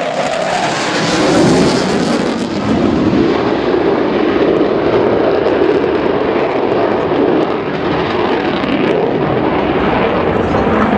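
Jet noise from the Panavia Tornado's twin RB199 turbofans during a low display pass. It is loudest and harshest about a second and a half in, then continues as a steady loud roar.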